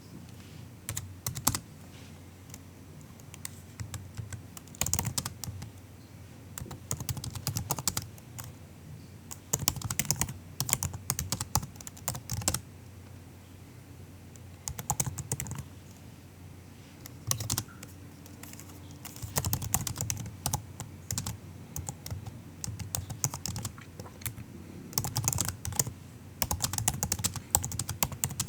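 Typing on a MacBook's built-in keyboard: soft key clicks in irregular bursts, broken by short pauses of a second or two.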